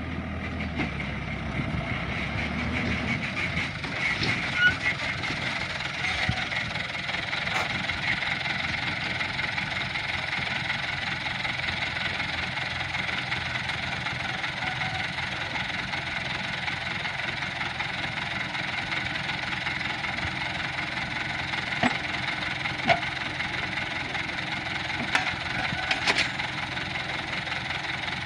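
Toyota Dyna dump truck's engine running steadily while it tips its load, with a few short knocks along the way.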